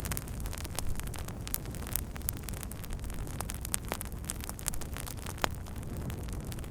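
Campfire burning: a steady low rush with frequent sharp crackles and pops from the burning wood.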